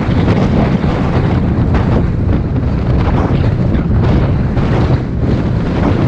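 Wind buffeting the microphone on a moving bus, over a steady low rumble of road and engine noise.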